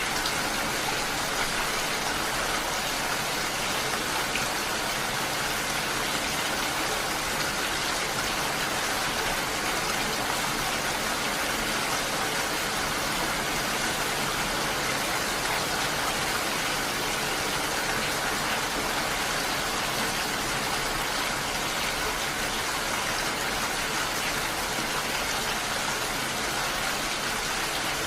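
Steady rain falling, an even dense hiss with no breaks.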